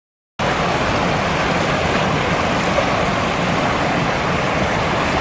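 A swollen river rushing steadily, running high the day after a typhoon. The sound cuts in abruptly just after the start.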